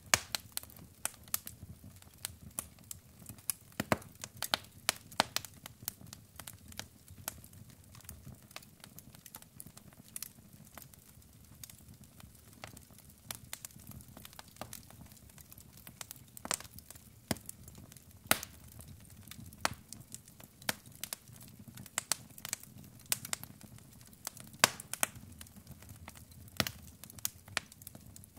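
Log fire in a fireplace crackling: irregular sharp pops and snaps from the burning wood, a few louder than the rest, over a soft low rumble of the flames.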